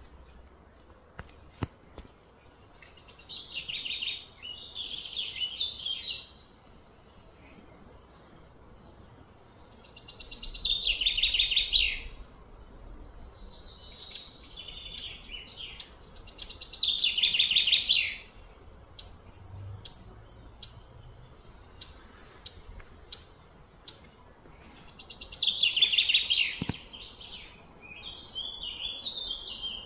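A bird singing high-pitched phrases of a few seconds each, repeated several times with pauses of a few seconds between them.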